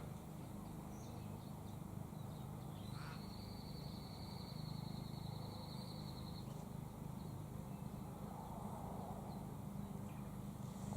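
Faint bird calls: a high, even trill lasting about three seconds, plus distant cawing calls that fit a raven.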